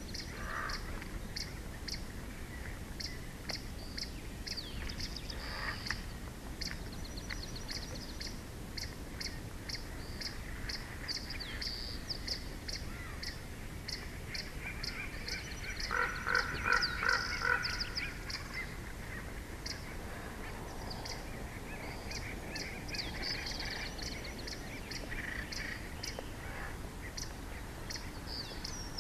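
Wild birds calling at the eagle nest: a small bird gives short, high chips over and over, and a little past the middle a louder, lower call comes in quick repeated notes for about two seconds.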